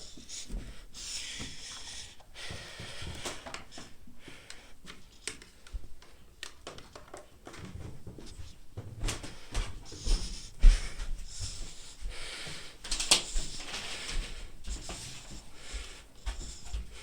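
Irregular knocks, clicks and rustling from handling a vacuum cleaner and its power cord, with a person breathing heavily; the vacuum motor is not running.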